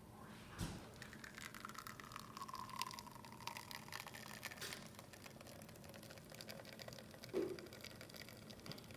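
La Pavoni espresso machine pulling a test shot: espresso streaming and dripping into a cup, with a click about half a second in and a short knock near the end.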